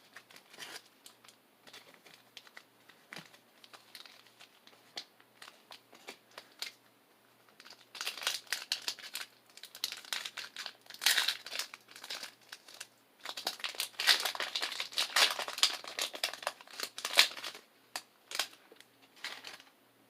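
Foil Pokémon booster pack wrapper crinkling as it is handled, with louder bouts of crinkling and tearing in the middle as the pack is torn open.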